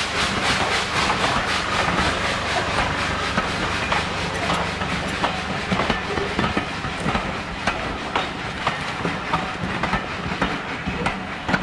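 Steam-hauled passenger train passing, its coaches' wheels clicking over the rail joints. A fast, even beat fades out in the first second or two, leaving irregular clicks over the rumble of the rolling stock.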